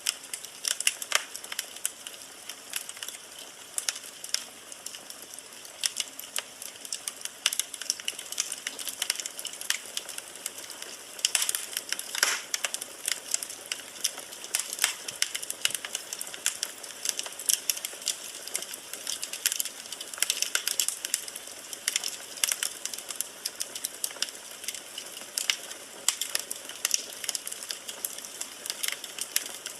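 Firewood burning in a fireplace: constant irregular crackling and popping over a soft hiss, with a denser run of sharp pops about eleven to thirteen seconds in.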